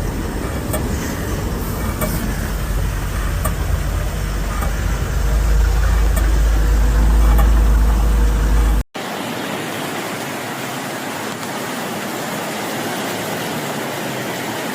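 Loud, noisy outdoor flood-scene audio. A deep rumble with a few clicks grows louder over about nine seconds, then after a sudden cut an even, steady hiss takes over.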